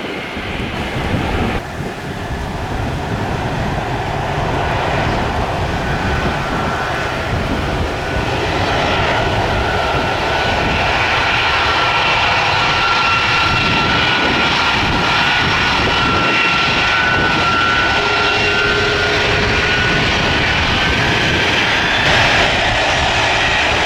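Jet aircraft engines running, a loud roar that builds over the first several seconds and then holds steady, with a high turbine whine laid over it.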